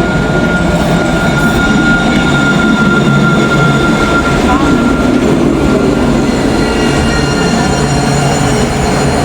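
Alstom Citadis electric tram at a stop: steady rumble with a thin, high electric whine that fades out about six seconds in.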